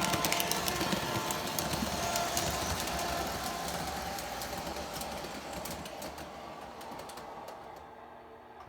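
O-gauge model diesel locomotive, a K-Line NYC RS3, running with its freight cars: wheels clattering and clicking over the track with the locomotive's motor and engine sound underneath. The sound fades steadily and drops away near the end.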